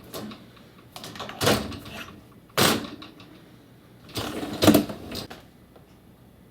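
Dishwasher door and rack being handled: a series of separate clunks and rattles, the sharpest a little over two and a half seconds in.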